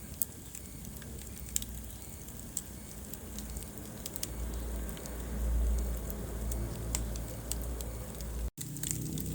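Wood fire burning in a fireplace, crackling with scattered sharp pops over the low rumble of the flames, which swells for a couple of seconds in the middle. The sound cuts out for an instant near the end.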